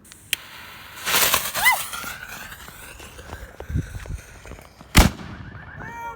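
Consumer firework canister (mortar) shell being fired: a lit fuse hisses loudly about a second in, then a single sharp bang near the end, followed by another just after.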